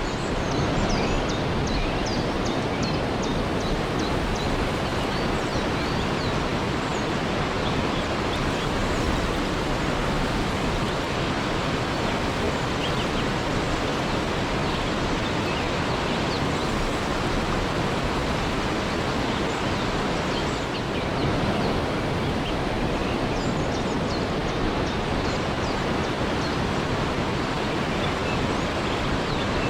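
Waterfall rushing steadily in a loud, even roar of falling water. Faint short high chirps come through about a second in and again past the middle.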